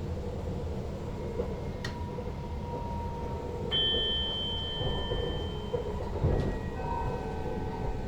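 Driving cab of an NS Sprinter Lighttrain (SLT) electric train: a steady low rumble, with a click about two seconds in. A high steady tone sets in about halfway through, and a different set of tones follows near the end.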